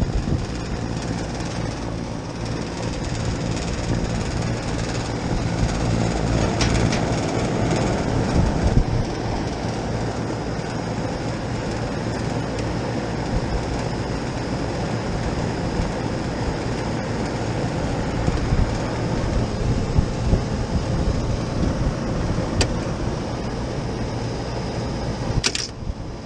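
Trane commercial rooftop HVAC unit running: a steady motor hum with a faint high tone above it, and a couple of clicks near the end.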